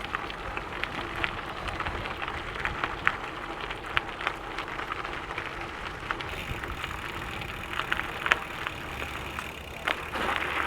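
Gravel bike tyres rolling over a gravel trail: a steady rolling noise with many scattered sharp ticks of stones and grit under the wheels.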